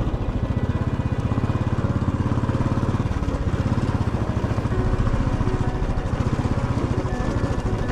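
Motorcycle engine running steadily while riding, a fast even low pulse of firing strokes.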